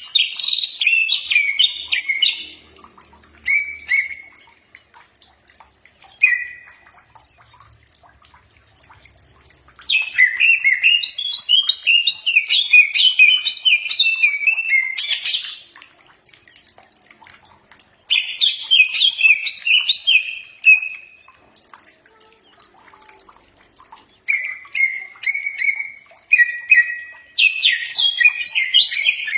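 Greater green leafbird (cucak ijo) singing in bursts of rapid, varied chirping phrases with pauses between. There are short notes around 4 and 6 seconds, a long phrase from about 10 to 15 seconds and another from about 18 to 21 seconds, and the song picks up again about 24 seconds in.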